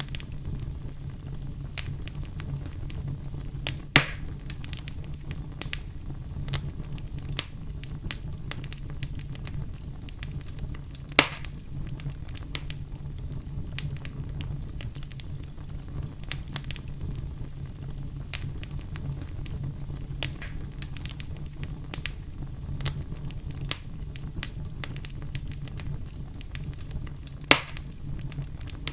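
Wood fire burning in a fireplace: a steady low rumble of flames with frequent small crackles and three sharper pops, about four seconds in, about eleven seconds in and near the end.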